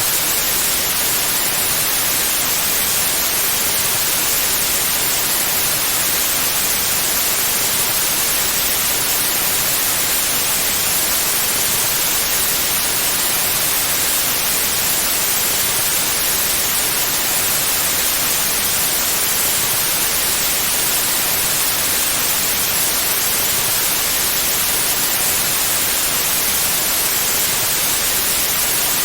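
Pure white noise: a steady, unchanging hiss, strongest in the high frequencies.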